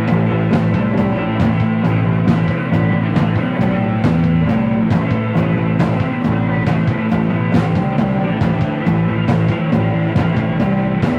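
Psychedelic rock instrumental passage: sustained guitar with drums keeping a steady beat.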